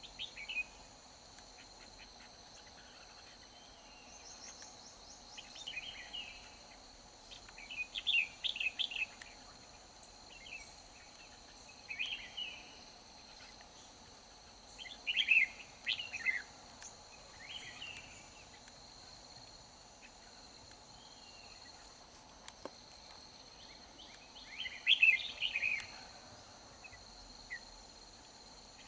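Red-whiskered bulbuls singing in short, bright bursts of song in a competitive exchange, loudest a little past the start of the second quarter, around the middle and near the end. A steady high insect drone runs underneath.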